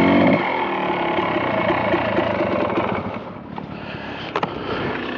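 Kawasaki KDX220R's two-stroke single-cylinder engine running while riding, getting quieter about three seconds in, with a couple of brief clicks late on.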